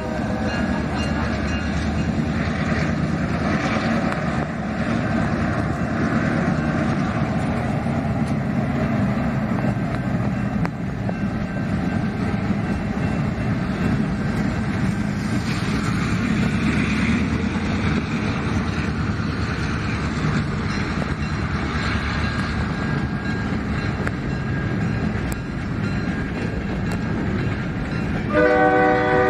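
A freight train passes, pulled by two EMD GP38 diesel-electric locomotives: a steady rumble of the diesel engines and of wheels rolling over the rails. The locomotive's air horn starts blowing near the end.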